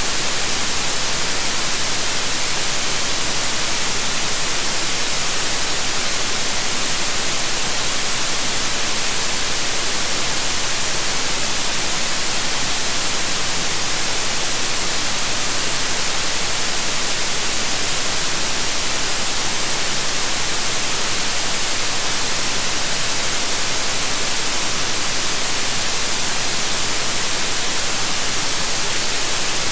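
Synthetic white noise: a steady, even hiss with no change in level.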